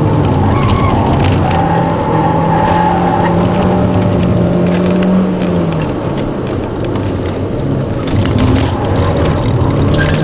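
Ford Puma's 1.7 VCT four-cylinder engine heard from inside the cabin, pulling hard with its pitch slowly climbing. About five seconds in the revs fall away and it goes quieter for a couple of seconds, then it comes back on power near the end, over steady road and wind noise.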